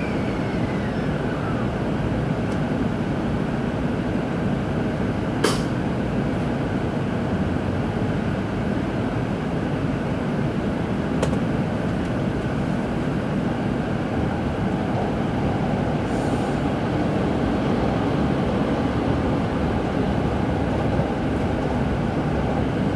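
Steady running noise of a Tōkaidō Shinkansen train heard from inside the passenger cabin, with a sharp click about five seconds in and a fainter one about halfway through.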